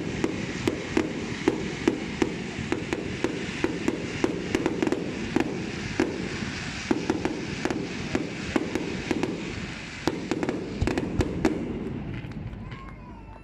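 Fireworks display: a rapid string of sharp bangs and crackles, several a second, over a steady rushing noise. It thins out and quietens near the end.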